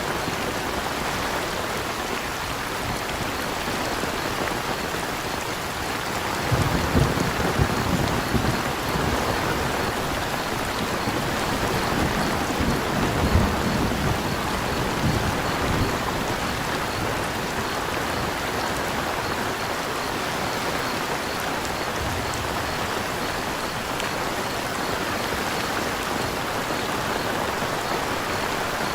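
Steady rain falling, with a low rumble of thunder rolling through from about seven seconds in for several seconds. Crickets chirp faintly in an even pulse underneath.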